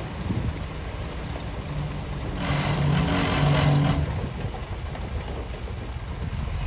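Heavy diesel engine of an earthmoving machine running, with a louder stretch of working noise for about a second and a half a little after two seconds in.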